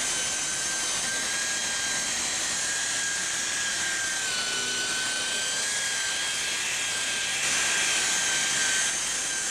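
Electric machine polisher running with a steady high whine over a hiss; its pitch sags slightly about four seconds in, and it gets a little louder near the end.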